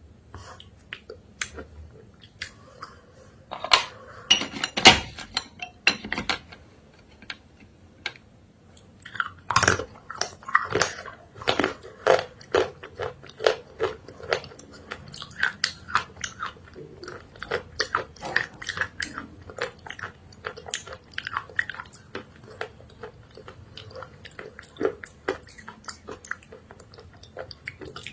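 A person biting into and chewing a thick earthy chalk/clay paste, with crunching and wet clicking mouth sounds. A few scattered bites give way to a louder burst of crunching about four seconds in, then steady, rapid chewing through the rest.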